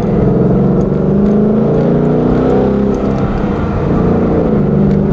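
2015 Ford Mustang GT's 5.0-litre V8 engine running while the car drives along, heard from inside the cabin with road noise underneath: a steady drone whose pitch drifts slightly.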